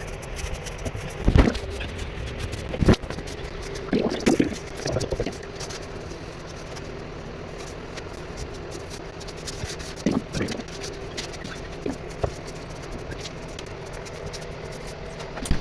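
Intermittent scraping and knocking over a steady hum, with a handful of short, sharp knocks, louder at first and again about ten seconds in.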